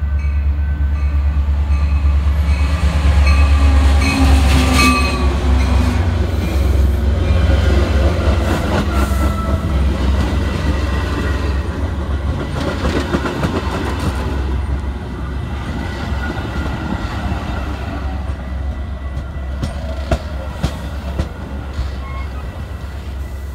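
Metra diesel commuter train passing close by: a heavy low rumble that is loudest a few seconds in as the locomotive goes by. The bi-level passenger cars then roll past with rail noise and wheel clacks, gradually easing.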